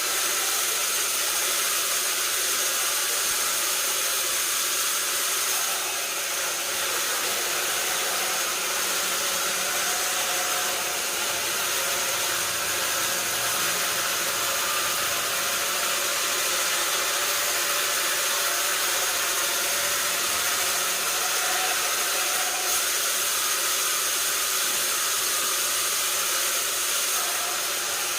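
Sawmill saw running without a break, a steady hiss with a high whine over it.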